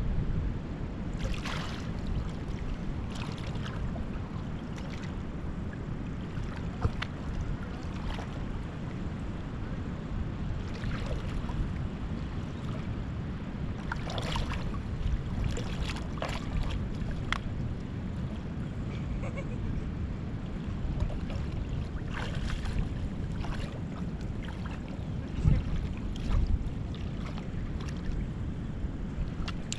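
Wind rumbling on the microphone outdoors by open water, with a few brief noisy hits scattered through, the loudest about a second and a half, fourteen and twenty-two seconds in.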